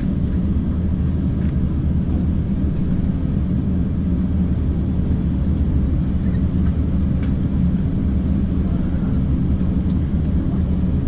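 Steady low rumble inside the passenger cabin of an Airbus A350-900, on the ground just after landing.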